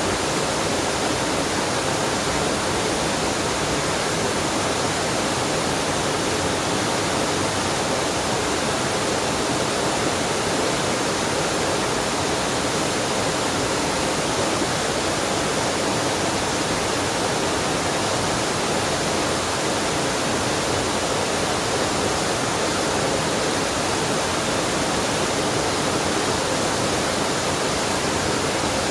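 Mountain stream waterfall: water rushing and splashing in a steady, unbroken roar.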